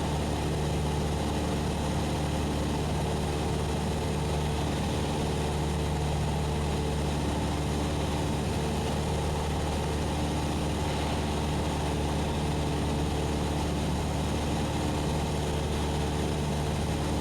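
Cessna 172SP's four-cylinder Lycoming engine and propeller droning steadily in flight, heard from inside the cockpit.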